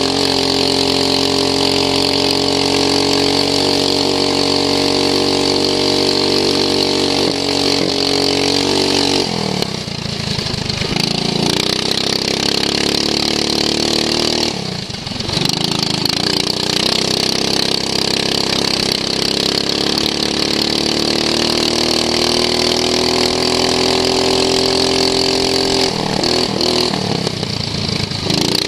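Racing lawn mower's engine at high revs, heard from on board. It eases off about a third of the way in and again around halfway, picks up and climbs slowly in pitch, then drops sharply near the end.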